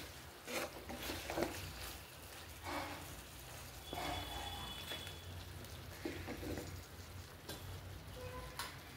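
Chicken pieces frying in a pan with a low, steady sizzle, broken by scattered clinks and knocks of utensils as dry spices are added.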